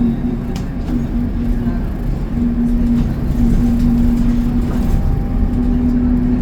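Transit bus running, heard from inside the cabin: steady engine and road rumble with a droning hum that fades and returns every second or so.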